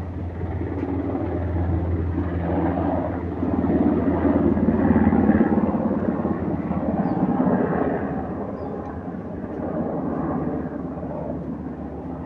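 Engine noise from a passing vehicle or aircraft: a steady low hum with a broader rush that swells for several seconds in the middle, then eases off.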